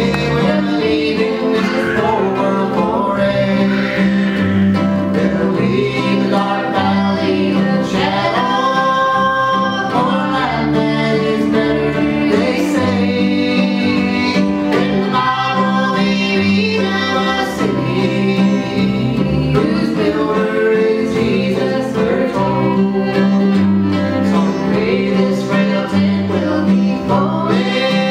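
Old-time string band playing a lively tune: a fiddle leads, with guitar and bass underneath, and the bass steps from note to note.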